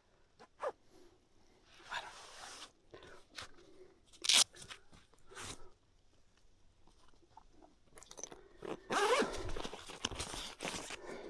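Mountain bike rolling over loose dirt and rock: tyres crunching in uneven bursts with scattered knocks and clicks from the bike, a sharp loud clack about four seconds in, and a longer rough stretch of crunching near the end.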